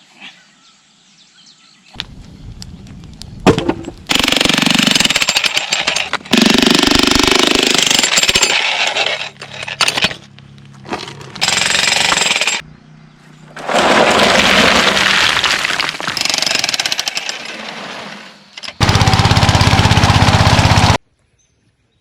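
Rock breaker rapidly hammering stone, heard in several separate bursts with short gaps between them. The last burst is the loudest and cuts off suddenly near the end.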